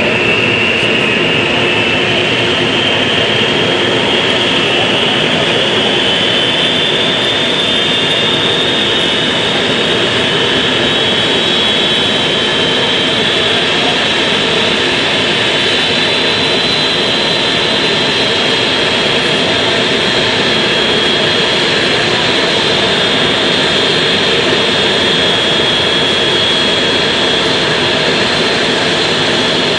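Jet aircraft engine running steadily at close range, a loud rushing noise with a high whine that rises in pitch over the first several seconds and then holds.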